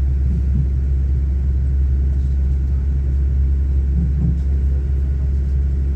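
Steady low rumble of a train under way, heard on board.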